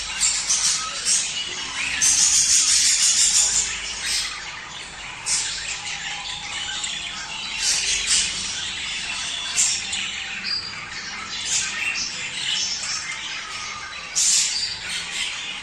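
Budgerigars chattering and warbling nonstop, with sharp chirps and squawks: the mating-season chatter of budgies. A louder burst of calls lasts over a second about two seconds in, and another comes near the end.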